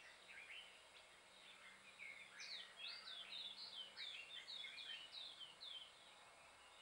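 Faint birdsong: short chirps, then from about two seconds in a rapid run of falling notes, about three or four a second, which stops near the end.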